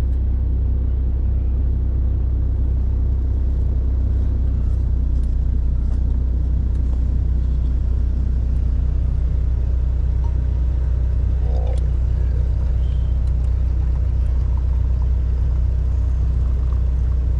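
A 1994 Toyota Surf's engine running steadily, a low even rumble with no revving.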